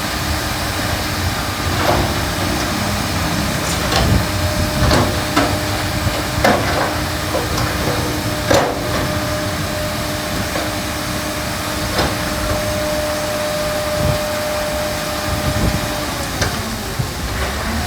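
Heavy diesel earthmoving machinery, a bulldozer, running steadily, with a held whine through the middle and sharp knocks and clatters of stone scattered through it, about half a dozen.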